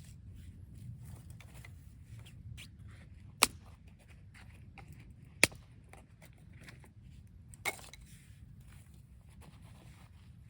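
Three sharp knocks or snaps, about two seconds apart, among small clicks and rustling, over a low steady rumble.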